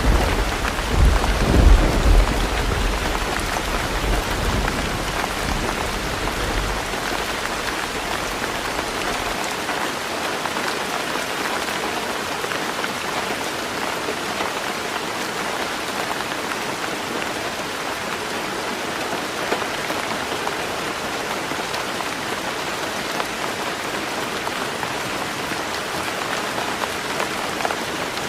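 Heavy rain drumming steadily on a tin roof, a dense even hiss, with a low rumble of thunder at the start that dies away within the first several seconds.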